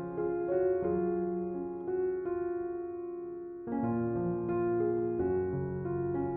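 Slow, calm piano music: soft sustained notes and chords that change every second or two, the sound fading gently before a new chord comes in a little after the middle.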